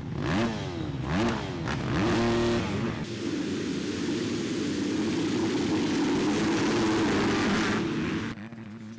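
Motocross bike engines revving hard, the pitch climbing and dropping several times as the bikes go through the gears. Then comes a steady, loud engine blare for several seconds that cuts off sharply near the end.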